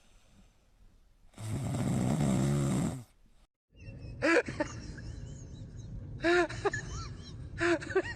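An animal's long snore-like breath. After a break, a run of short, high squeaks, each rising and falling in pitch.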